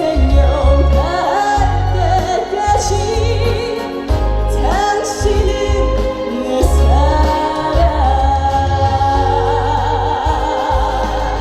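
Female trot singer singing live with heavy vibrato over a loud backing track with a pounding bass beat. She ends on a long held, wavering note.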